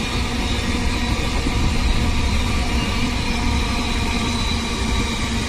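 Double-stack container freight train hauled by a WAG-9 electric locomotive running past, a steady rumble with faint steady tones above it.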